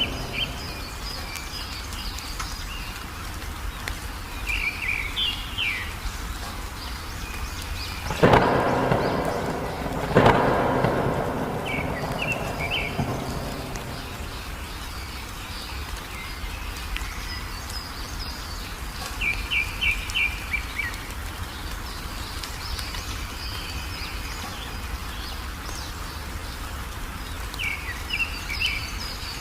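Wild songbirds chirping in short repeated phrases over steady rain, with two claps of thunder about eight and ten seconds in, each rumbling off over a couple of seconds.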